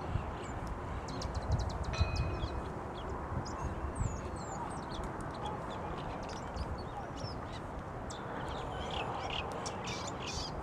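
Birds feeding and calling, with many short high chirps scattered through, over a steady low rumble and hiss.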